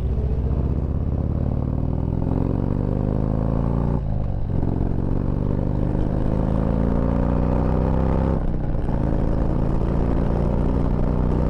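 Motorcycle engine accelerating hard through the gears, heard from on the bike: the pitch climbs, drops at a gear change about four seconds in, climbs again, drops at a second shift a little past eight seconds, then rises once more.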